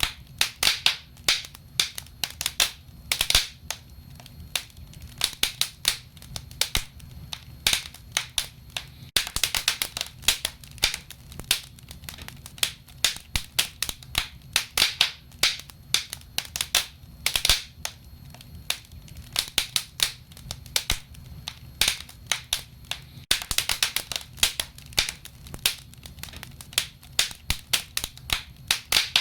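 Wood fire burning in a stove, crackling steadily with many irregular sharp pops and snaps over a low hiss.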